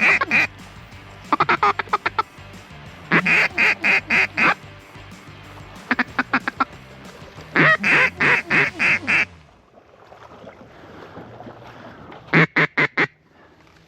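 Duck call blown in runs of loud, evenly spaced quacks, about six to eight notes per run, repeated five or six times, to bring back a flock of ducks circling nearby.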